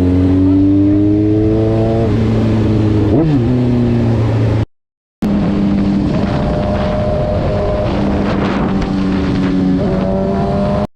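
Car engine accelerating, its pitch rising for about two seconds, then changing as it shifts gear. The sound drops out for half a second about halfway through and comes back as a steady engine drone with road noise.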